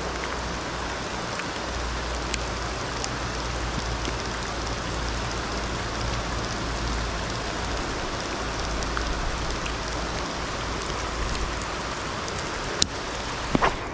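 Heavy rain pouring down steadily, with a few sharp taps near the end.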